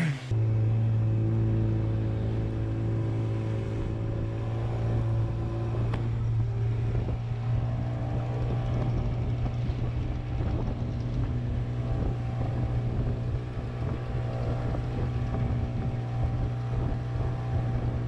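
Boat engine running steadily at an even speed, a low hum with steady tones above it.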